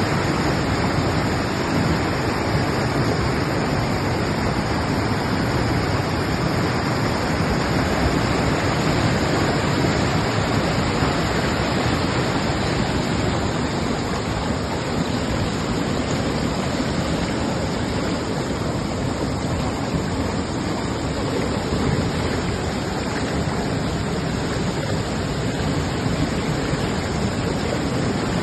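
Mountain river rushing: a loud, steady noise of fast-flowing water with no let-up.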